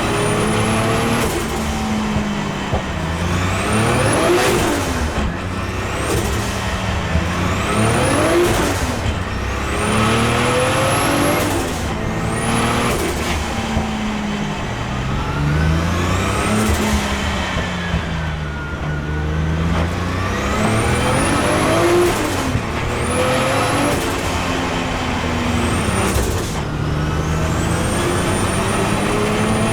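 BMW E46 M3 with a swapped Toyota 2JZ straight-six pulling hard, the engine note climbing and dropping over and over as it revs up and shifts. A high whine rises alongside each pull.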